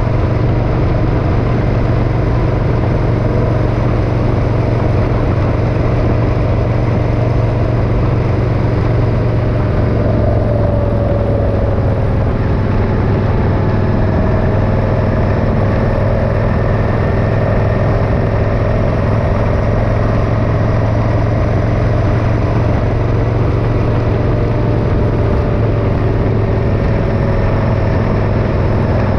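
Motorcycle engine running steadily while riding, a constant low hum over a broad rush of noise, with a slight waver in pitch near the middle.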